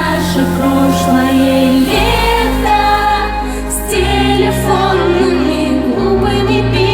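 Live pop music from a band over a concert sound system, with singing over sustained chords and a bass line that changes about every two seconds.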